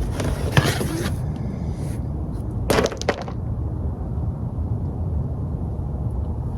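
Rustling and handling noise as car floor mats are taken out and put in, with a short louder rustle near the middle, over a steady low rumble.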